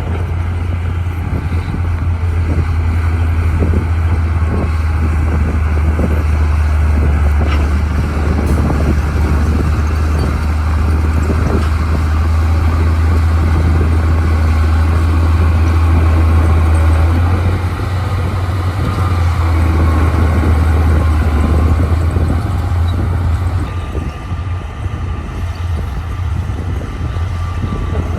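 Bulldozer's diesel engine running steadily with a deep, constant drone as the machine works.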